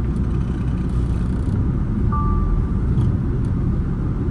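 Semi truck's diesel engine running under load with a steady low rumble as the truck tries to pull away, stuck in mud and snow.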